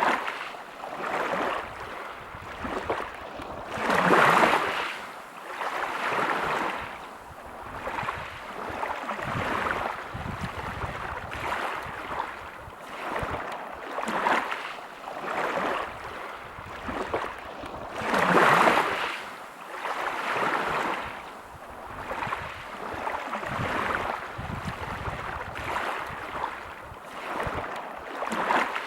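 Sea waves breaking on a pebble beach, a wash of noise swelling and fading every second or two, with two bigger waves about four seconds in and again about eighteen seconds in.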